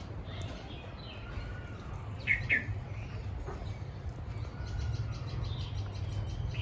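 Birds chirping faintly: a quick pair of short chirps about two seconds in and a few softer calls later, over a steady low hum.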